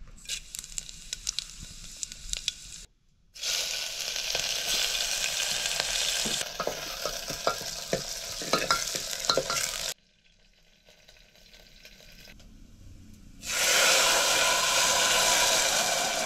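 Food frying and sizzling in a hot pan, with a spoon clicking and scraping as it is stirred. The sizzle cuts off and starts again abruptly a few times, loudest near the end.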